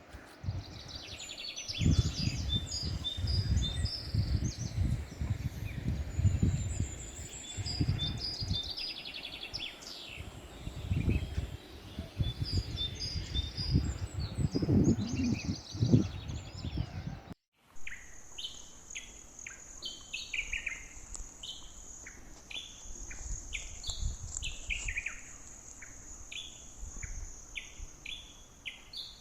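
Songbirds chirping and calling, with irregular low rumbles underneath for the first half. After a brief break, a steady high-pitched insect drone runs under a bird's repeated short falling notes.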